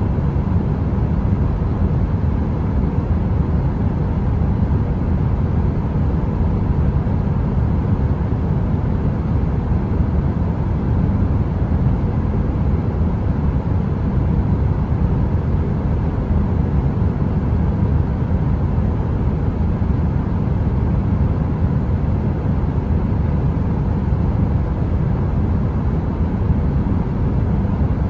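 Electric heater's fan running steadily: a deep, even rumble with a faint hum and no crackle.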